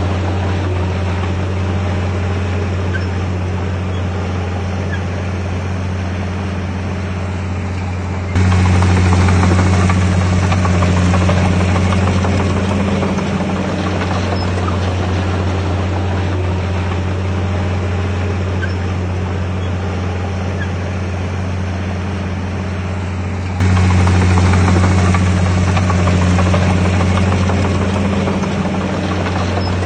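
Komatsu D51PX bulldozer's diesel engine running steadily under load, a deep, even hum. Twice, about 8 and 24 seconds in, it suddenly gets louder and then eases back.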